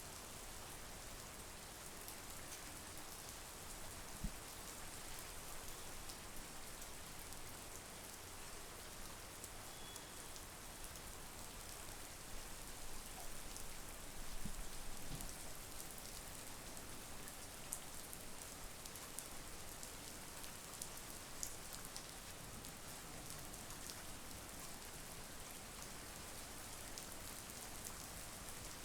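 Steady monsoon rain: an even hiss of rainfall with many close drops tapping, and a few louder drips about four seconds in and again around the middle.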